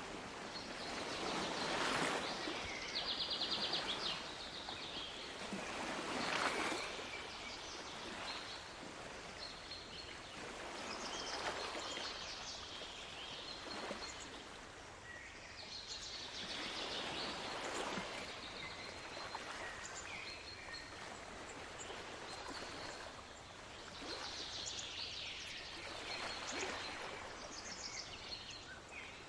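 Sea waves washing ashore, swelling and falling back every few seconds, with small birds chirping and giving short rapid trills over them.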